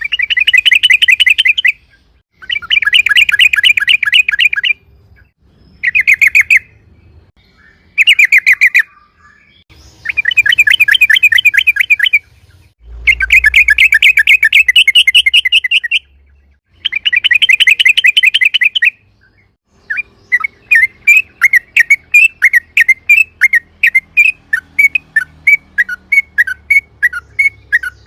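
Yellow-vented bulbul (trucukan) singing loud, rapid rolling trills (the 'ropel' song) in repeated bursts of one to three seconds, with short pauses between them. About two-thirds of the way in, this gives way to a steadier run of separate chirps, three or four a second.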